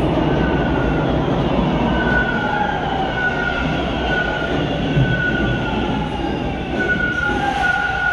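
TTC T1 subway train moving along the platform: a steady rumble of wheels on rail, with high-pitched wheel squeals wavering over it from about two seconds in.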